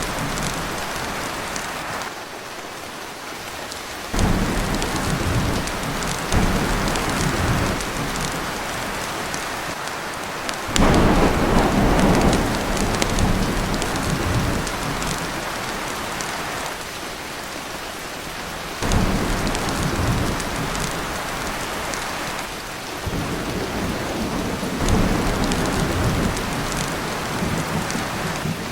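Torrential rain drumming on a tin roof, with rolls of thunder rumbling in again and again over it, the loudest about eleven seconds in.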